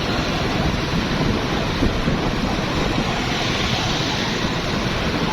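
Steady street traffic noise of motorbikes and cars, with wind buffeting the microphone.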